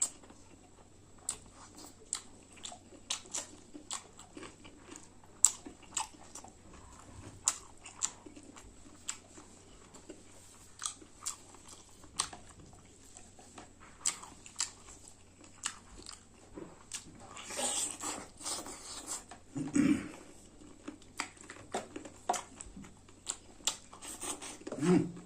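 A person eating buffalo meat with rice close to the microphone: irregular sharp clicks and smacks of chewing. A louder rustling stretch comes about two thirds of the way through.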